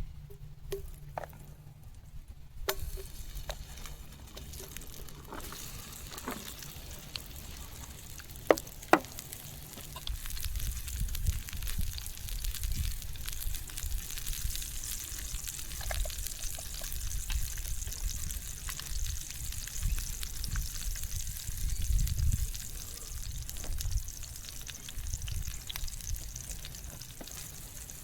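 Mushrooms and potatoes sizzling as they fry in a pan. The sizzle sets in about three seconds in. Two sharp knocks come about eight and nine seconds in, and there is a low rumble in the second half.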